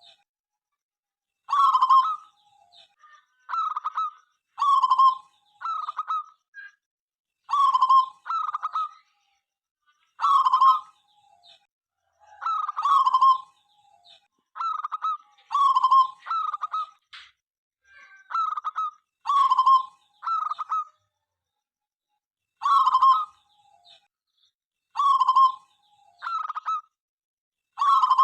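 Zebra dove (perkutut) cooing in short phrases of two or three notes, repeated with a new phrase every second or two and brief pauses between.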